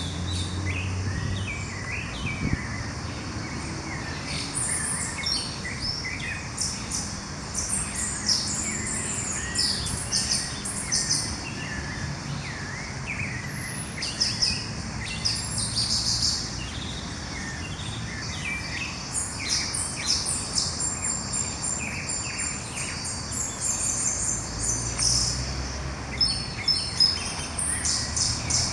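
Dawn chorus of several birds singing and chirping at once, many short high notes and trills overlapping throughout, over a steady low background rumble.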